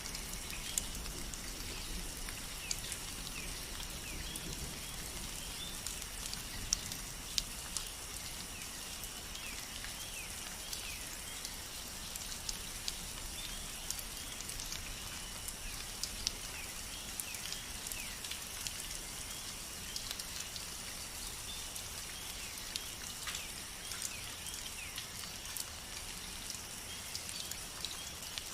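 Steady rain, a continuous high hiss with scattered sharp drops ticking close by. Short high chirps are dotted through it.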